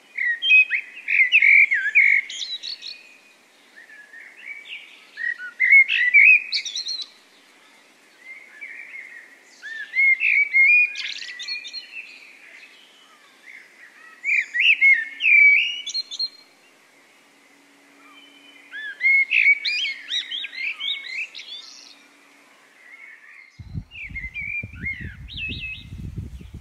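A songbird singing a varied, warbling song in phrases of about two seconds, repeated roughly every four to five seconds. Near the end, a low rumble comes in underneath.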